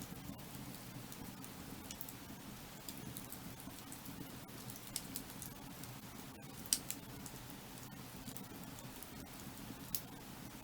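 Burning firewood crackling and popping: scattered sharp snaps over a steady low rushing sound, with the loudest pop about two-thirds of the way through.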